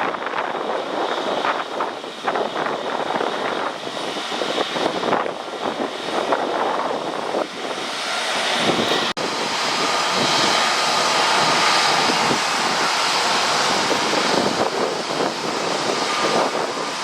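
Jet airliner engine noise, gusty at first with wind buffeting the microphone; about halfway through it cuts off abruptly and switches to a steadier jet noise carrying a faint high whine.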